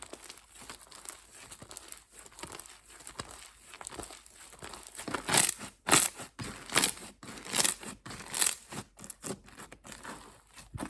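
Slime being handled and pressed by hand: soft crackling at first, then from about halfway a run of sharper squelching pops, roughly one a second.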